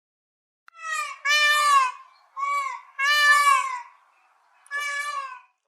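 A bird calling five times in a row, each call a drawn-out, pitched cry that bends and falls slightly at its end; the second and fourth calls are the longest.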